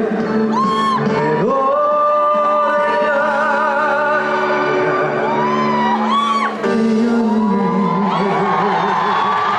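A live song sung by a male singer with band accompaniment, the voice holding long notes with a wavering vibrato and sliding between them.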